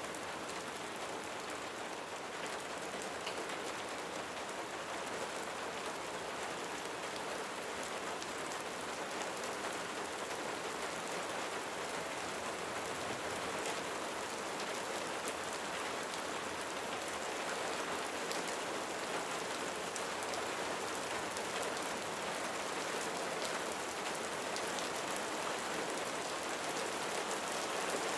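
Steady rain falling on a roof, an even hiss with scattered individual drops ticking through it.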